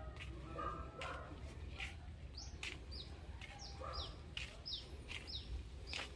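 A small bird calling faintly, a steady series of short, high chirps that each sweep downward, about two a second, starting about two seconds in, with faint clicks throughout.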